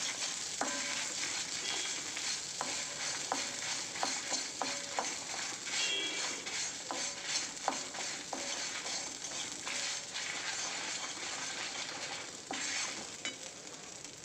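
Dried red chillies and garlic frying in a little oil in a kadai, sizzling steadily as they are stirred, with frequent light scrapes and taps of the spatula against the pan.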